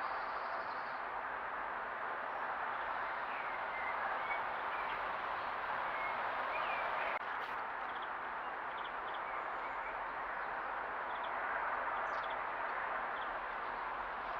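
Small garden birds chirping faintly and intermittently over a steady background hiss. There is a brief click about seven seconds in.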